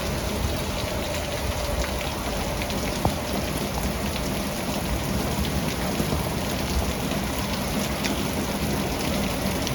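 Steady downpour of rain in a thunderstorm, with small drop ticks on surfaces and a fluctuating low rumble of gusting wind.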